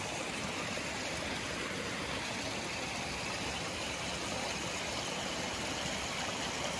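Steady rush of water falling over rocks at a waterfall, an even hiss without breaks.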